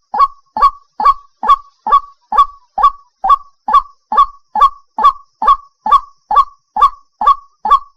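White-breasted waterhen (ruak-ruak) calling: a short note repeated evenly, about two a second, without a break.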